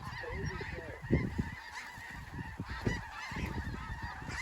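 A large flock of snow geese calling over the decoys: a dense, continuous chorus of many overlapping calls, with low rumbling noise underneath.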